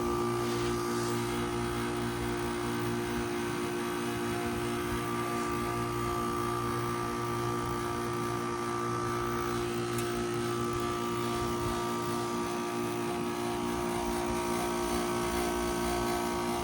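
2012 Goodman GSH13 heat pump outdoor unit running through its defrost cycle: a steady mechanical hum with several held tones.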